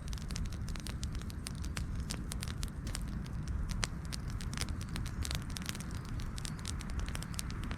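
Wood campfire burning, crackling with many irregular sharp pops over a steady low rumble of flame.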